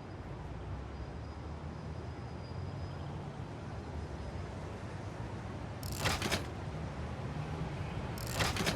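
A steady low rumble of a vehicle running, with two short bursts of rustling noise about six and eight seconds in.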